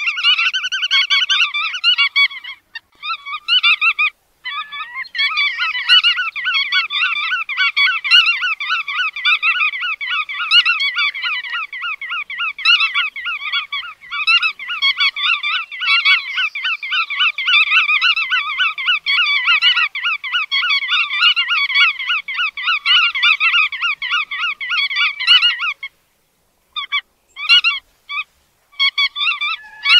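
Bar-tailed godwits calling: a dense, fast run of repeated call notes with short breaks near the start, stopping about four seconds before the end, then a few scattered notes.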